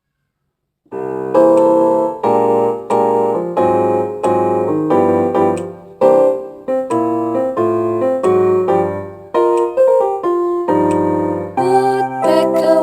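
Electronic keyboard with a piano sound playing an intro of chords struck in a steady rhythm, starting about a second in.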